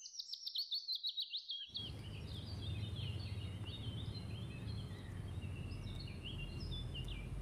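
Birdsong: a fast run of repeated high notes, each sliding down sharply, for the first second and a half. Then scattered chirps from birds over a steady low outdoor rumble.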